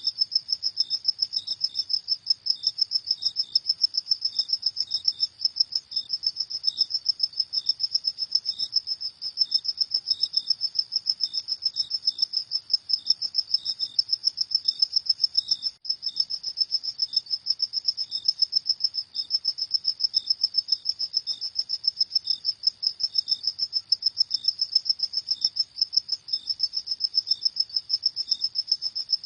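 Field crickets chirping steadily in rapid, evenly spaced high-pitched pulses. A second, lower-pitched cricket chirps more sparsely underneath.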